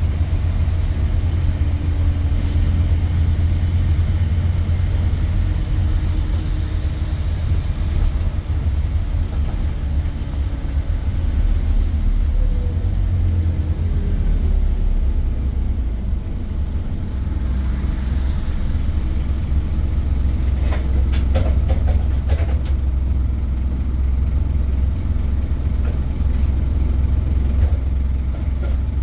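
Scania N230 bus's diesel engine running with a steady low rumble, with a brief cluster of sharp clicks and rattles about two-thirds of the way through.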